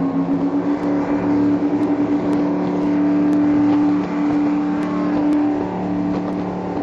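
High-performance powerboat engines running at speed, a steady, even drone.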